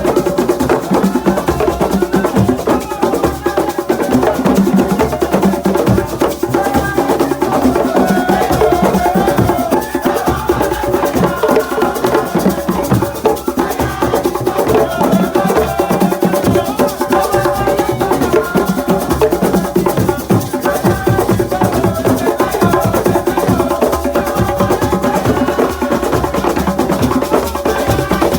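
Senegalese assiko music: a dense, steady rhythm of hand-played drums, including the square box drum (caisse carrée), with group singing over it.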